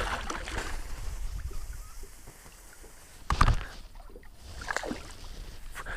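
Water splashing and lapping around a kayak while a hooked bass is fought up to the boat, with a sudden louder splash-like noise about three and a half seconds in.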